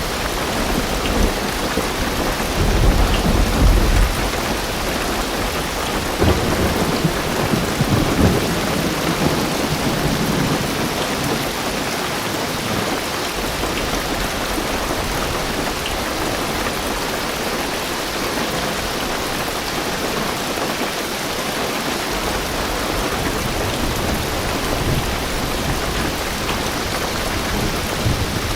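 Heavy rain drumming steadily on a car roof and windows, heard from inside the car. Low thunder rumbles swell up twice in the first third, then the rain carries on alone.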